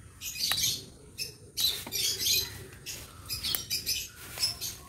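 African lovebirds giving short, high-pitched chirps in repeated bursts, with a few sharp clicks among them.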